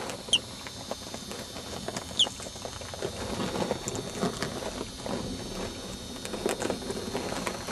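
Two brief, high peeps falling in pitch from a hatching parakeet chick, about two seconds apart, over faint scratching and rustling.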